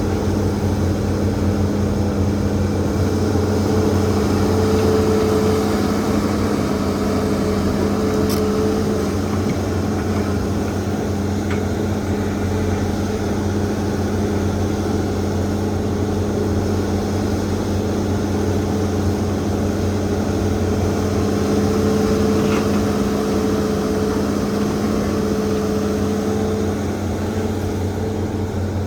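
Hitachi ZAXIS200 excavator's diesel engine running steadily at a constant speed, with a few faint clicks.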